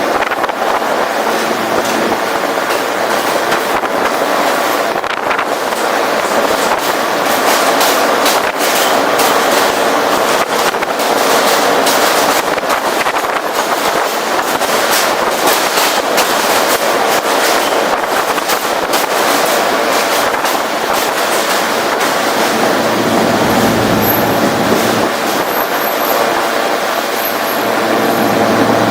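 New York City subway F train running at speed, heard from its roof: a steady rush of wheel-and-rail noise with rapid clicks and rattles. Faint high tones come in near the end.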